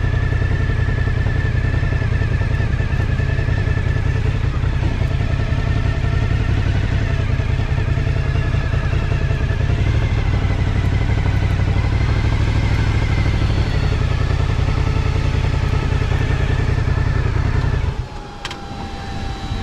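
Suzuki 1000cc motorcycle engine idling steadily while the bike stands parked, then switched off about eighteen seconds in, the idle cutting out abruptly.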